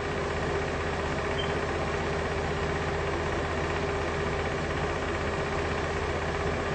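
A steady engine-like hum with a constant low tone and no change in pitch.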